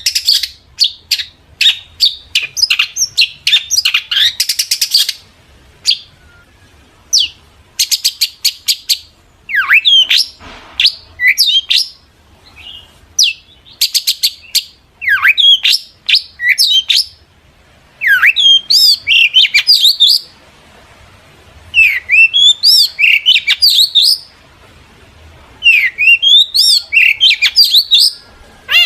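Long-tailed shrike (cendet) singing loudly, in bursts of rapid chirps and quick sliding whistles with short pauses between phrases.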